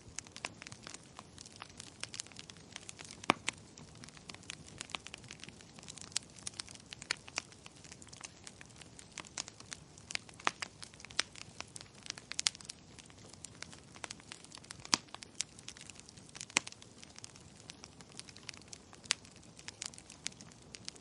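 Wood fire crackling in a fireplace: a soft steady hiss with many irregular sharp pops, a few of them much louder.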